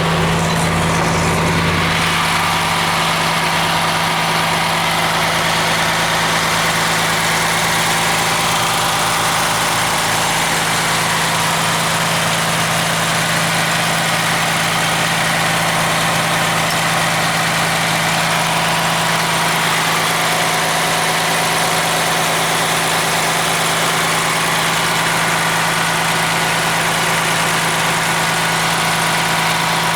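Cummins ISM turbo diesel engine of a Blue Bird coach idling steadily, with a constant hum; a deeper hum drops away about two seconds in.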